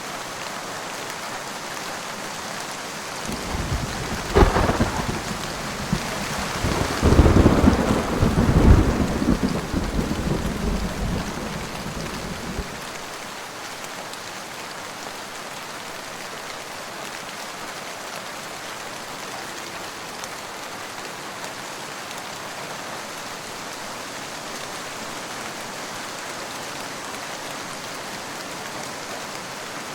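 Steady rain with a thunderclap about four seconds in: a sharp crack, then a low rolling rumble for several seconds that ends fairly abruptly near the middle, leaving the rain alone.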